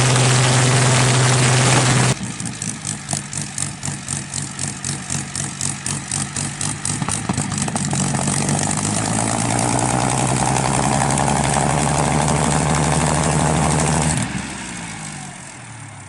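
Rolls-Royce Griffon Mk 58 V12 aero engine running steadily, then, after an abrupt change about two seconds in, firing unevenly in pulses, settling into a steadier run that builds, and about fourteen seconds in shutting down, its note falling as it winds down.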